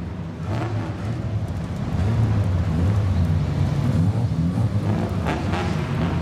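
Straight-piped exhaust of a lowered old car rumbling low and uneven, getting louder over the first two seconds and then holding.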